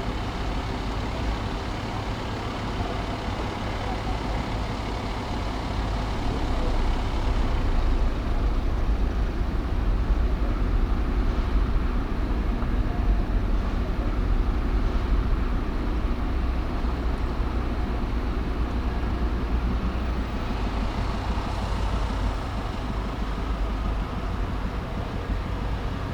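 Steady low rumble of a car driving through city traffic: engine and tyre noise heard from the car, a little louder in the middle stretch.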